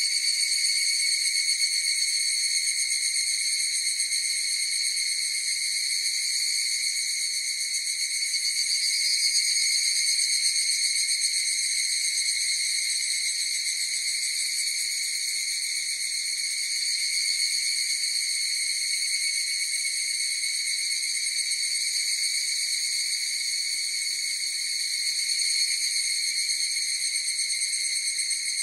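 Chorus of higurashi (evening cicadas, Tanna japonensis) calling: a continuous high ringing drone that swells slightly about 9 seconds in and again near the end.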